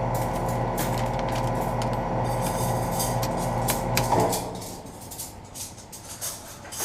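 A 2007 Guardian 4-ton central air conditioner's outdoor unit, with a Bristol reciprocating compressor, running with a steady hum, then shutting off about four seconds in with a brief falling whine as it stops. Afterwards the unit goes quiet apart from scattered clicks and a sharp knock near the end.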